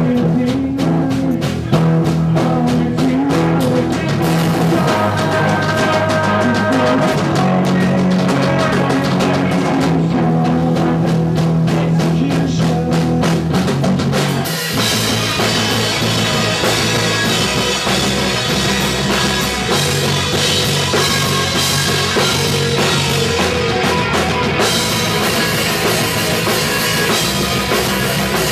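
Punk rock band playing live: drum kit, bass and guitars. About halfway through, the music shifts into a fuller section with the cymbals coming in.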